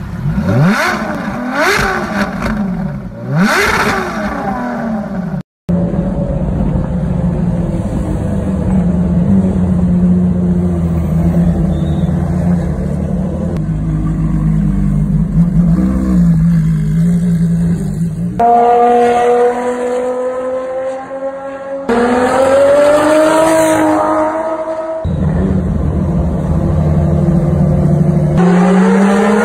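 Ferrari V12 engines. First a LaFerrari is revved at a standstill, its pitch rising and falling several times. After a sudden cut, Ferrari FXX-series track cars run at low revs in the pit lane, then the pitch climbs as they rev and pull away.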